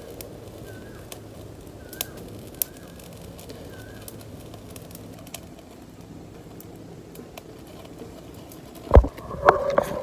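A bird calling with short, curling chirps, about five in the first four seconds, over the faint crackle of a small wood campfire. Near the end there is a loud thump, followed by a few more knocks.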